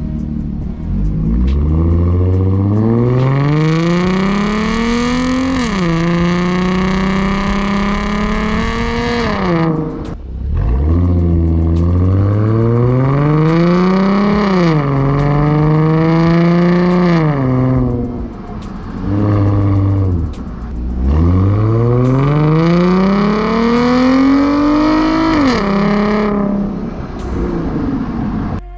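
2014 Ford Mustang's 3.7-litre V6 with a Borla ATAK axle-back exhaust accelerating hard three times. Each time the exhaust note climbs steadily in pitch, drops sharply at an upshift, and climbs again into the next gear.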